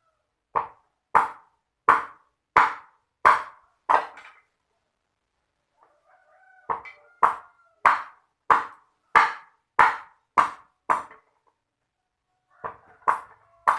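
A run of sharp, regular strikes, about three every two seconds, coming in three bursts of several blows with short pauses between. Faint thin tones, like distant chirps, sound in the gaps.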